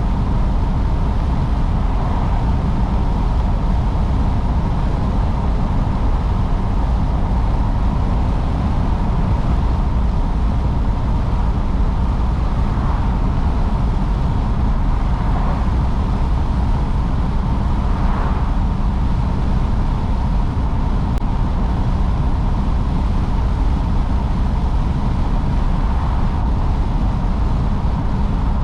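Car under way: steady engine and road rumble, loudest at the low end, with no change in speed.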